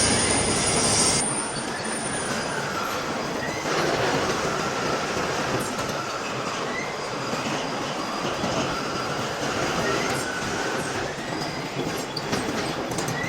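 Steady metal-cutting noise from a lathe turning a large steel shaft, with a faint wavering squeal from the cutting tool; the noise thins out about a second in.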